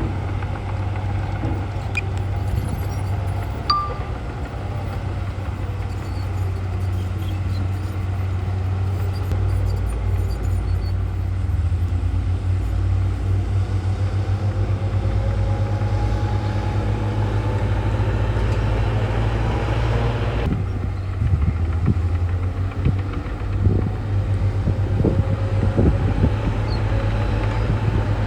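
Heavy diesel earthmoving machinery running steadily with a deep engine hum, a whine above it slowly rising and falling in pitch, and a few clanks in the last several seconds.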